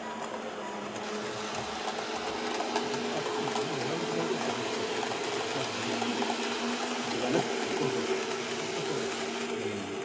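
Model train running along the layout track: a steady mechanical hum of motor and wheels on rails, swelling a little as it comes nearer about two-thirds of the way through.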